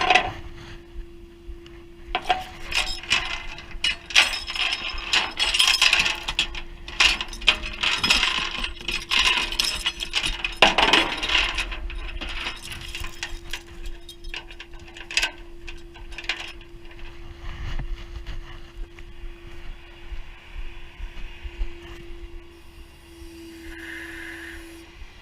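Tow truck J-hooks and chains being fitted and handled: irregular metal clanking, rattling and scraping, busiest in the first half, over a steady hum.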